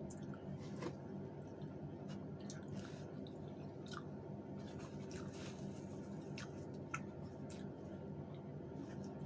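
Close-up eating sounds: scattered wet mouth clicks and smacks of chewing food eaten by hand, over a steady low hum.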